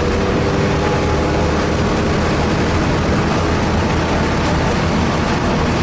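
Car engine running at speed on a race track, heard from inside the cabin over loud, steady road and wind noise.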